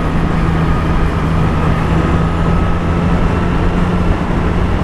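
Triumph Street Triple 765's three-cylinder engine running at a steady pace under way, with rushing wind and road noise on a helmet-mounted microphone; the engine note shifts slightly near the end.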